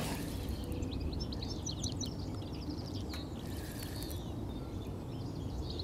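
Songbirds chirping in quick high runs, about a second in and again near the end, over a steady low outdoor rumble.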